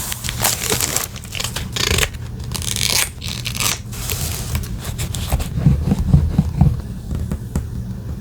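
Paper being torn and handled in short rustling strokes. About two-thirds of the way in come a few soft knocks on the desk.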